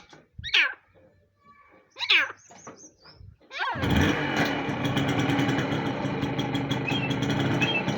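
A partridge gives two shrill calls that fall in pitch. Then, a little under four seconds in, a motorcycle engine starts and settles into a steady idle.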